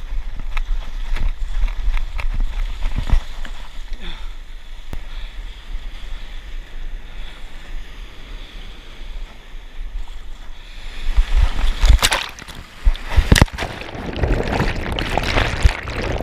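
Wind buffeting the microphone on a stand-up paddleboard in the surf, then about eleven seconds in a loud rush of splashing whitewater with a few heavy knocks: the board caught in a breaking wave as the rider and his dog tumble off into the surf.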